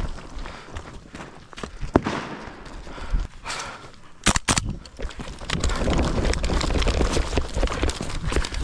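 Airsoft guns firing: a few sharp cracking shots, with two in quick succession about four seconds in. The shots are followed by a longer stretch of scuffing and rustling movement.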